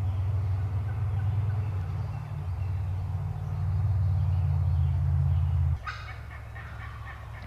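A steady low rumble that cuts off abruptly near the end, then a male eastern wild turkey gobbles once.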